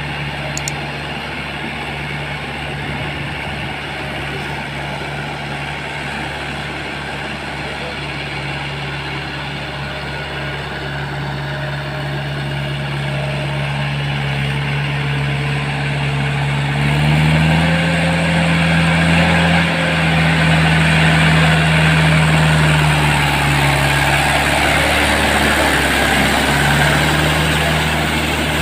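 Tractor engine running steadily, then revving up about two-thirds of the way through and holding higher for several seconds before easing back.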